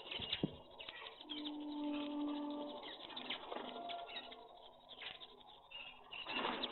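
Pigeons cooing, with one long low coo about a second in, among small birds chirping and light clicks, and a louder burst near the end.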